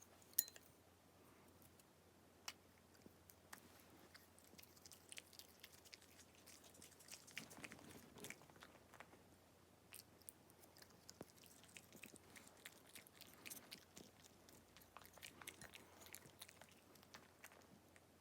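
A small dog chewing raw sweet potato: faint, irregular crunches and clicks of teeth on the hard root, with one sharper crack about half a second in.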